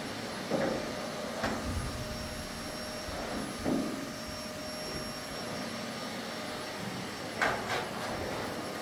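Vacuum cleaner running with a steady whir, with several knocks and bumps over it as it is pushed around.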